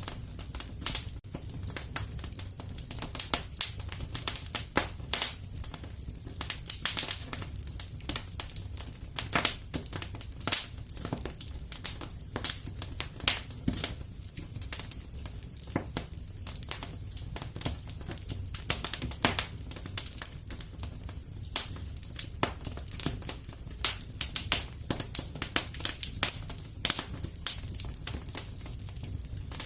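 Wood fire crackling in a fireplace: a dense run of irregular sharp snaps and pops over a low steady rumble of the flames.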